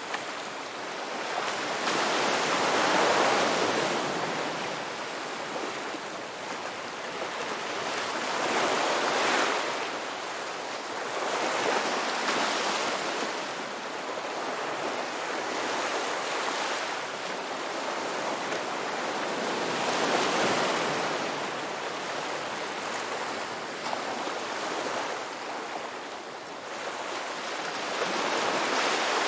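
Ocean waves breaking on a beach. The wash of surf swells and fades every few seconds as each wave comes in and draws back.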